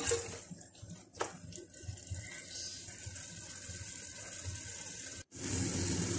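A spatula scrapes through beef masala in an aluminium pot a couple of times in the first second or so, then the meat and masala sizzle steadily as they fry. The sizzle drops out for an instant near the end and comes back louder.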